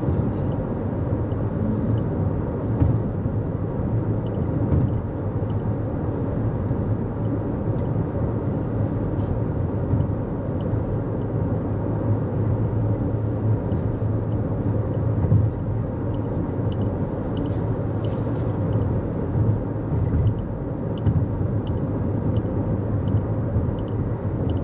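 2024 Toyota Corolla Cross cruising at highway speed: a steady, low rumble of tyre and road noise with the engine under it, heard from inside the cabin.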